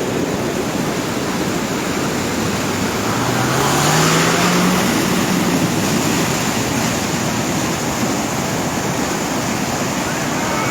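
Steady rushing of floodwater. About three seconds in, a motor's low note rises in pitch for a couple of seconds.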